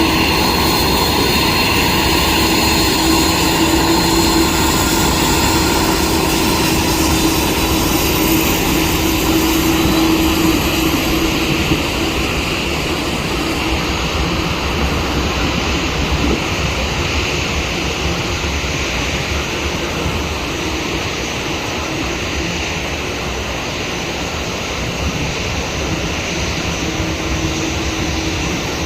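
Jet airliner's engines running loud as the plane passes. A high whine slowly falls in pitch over the first dozen seconds, after which the sound eases a little.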